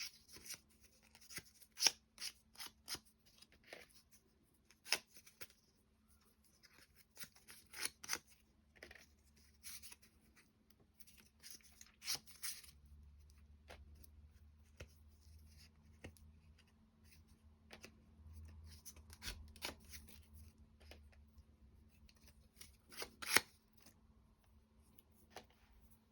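Small laser-cut wooden clock parts being sanded by hand to take off their burrs and handled on a table: short scratchy rubs and irregular light clicks and taps, with a sharper knock about two seconds in and another near the end.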